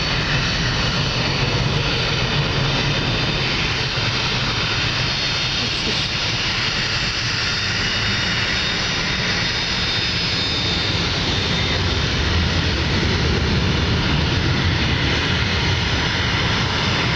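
Jet aircraft engines at takeoff thrust: a steady, loud rushing noise, with a faint high whine near the middle.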